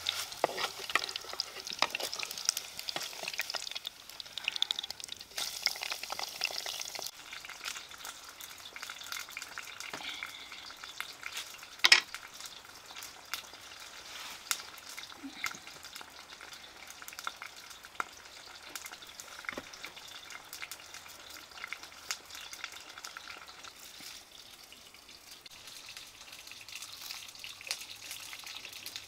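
Food frying and sizzling in a pan, a steady crackling hiss with scattered small clicks, heavier in the first few seconds, and one sharp knock about twelve seconds in.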